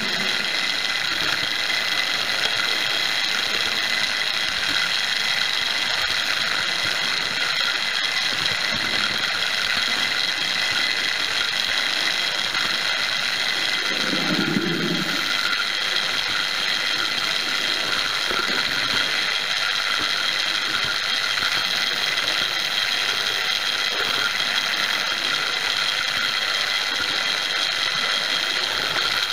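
The electric motor and gears of a Hornby Dublo 0-6-2 tank engine chassis running steadily along three-rail track, heard up close from on board: a steady high whine with gear chatter. A short low rumble comes about halfway through.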